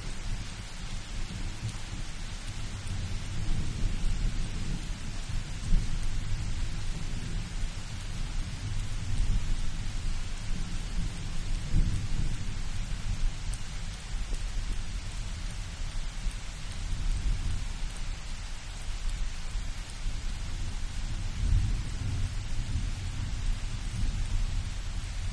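Light thunderstorm: steady rain hissing, with low rolling thunder rumbling beneath and swelling several times.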